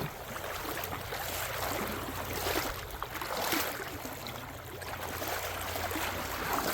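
Creek water running steadily, a continuous rushing hiss.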